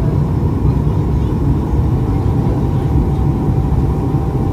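Boeing 737 MAX 8 cabin noise in flight: a steady, loud low rumble of engines and airflow heard from inside the cabin, with a faint steady whine above it.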